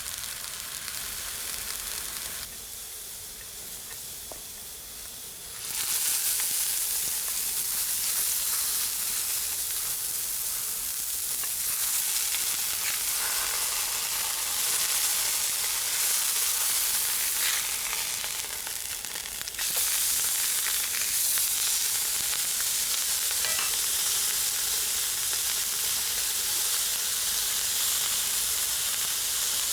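Food sizzling in a frying pan, a steady high crackling hiss: a burger frying at camp. It is quieter for a few seconds, then louder from about six seconds in.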